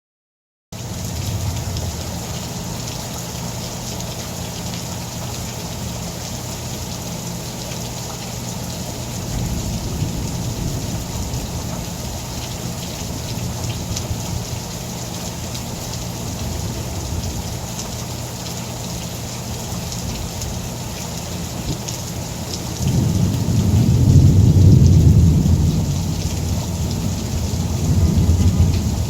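Thunderstorm: steady rain falling, with low rolls of thunder. The loudest rumble builds about three-quarters of the way through and slowly fades, with a shorter roll near the end.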